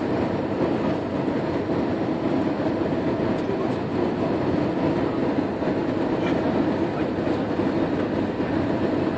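Steady rumble of an airliner's engines and airflow heard from inside the passenger cabin, with no let-up or change.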